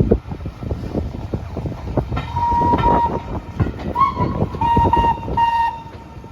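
Steam locomotive whistle giving several short blasts on one steady note, starting about two seconds in, over the knocks and clanks of a train rolling into a station.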